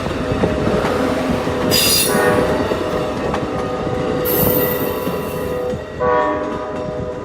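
Amtrak train going by with its horn sounding in held blasts, a fresh blast starting about six seconds in. High-pitched wheel squeal rises over it about two seconds in and again for a while in the middle.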